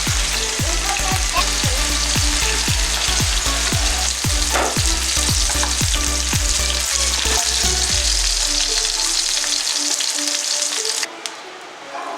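Marinated boneless chicken pieces frying in a pan, a loud steady sizzle of hot oil that cuts off suddenly near the end.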